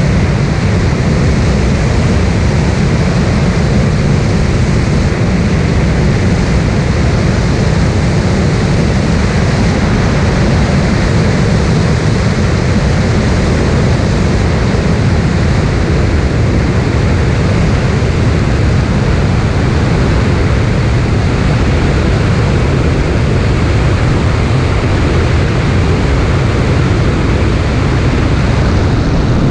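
Cessna light aircraft's piston engine and propeller running steadily: a loud, even drone with no change in pitch or level.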